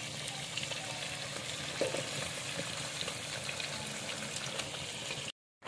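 Fish pieces frying in oil and masala in a metal pot: a steady crackling sizzle, with a spatula turning the pieces and a single click about two seconds in. The sound cuts off suddenly near the end.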